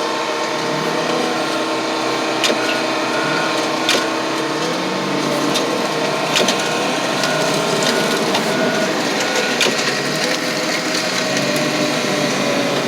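Car crusher running steadily as it squeezes a pickup truck's body, with sharp cracks and pops of metal and glass giving way every few seconds.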